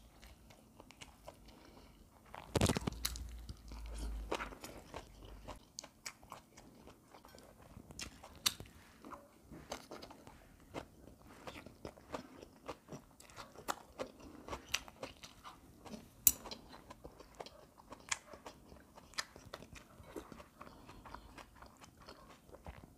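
A person chewing and crunching seasoned vegetable side dishes and rice, with many small sharp mouth clicks and smacks, and one louder thump about two and a half seconds in.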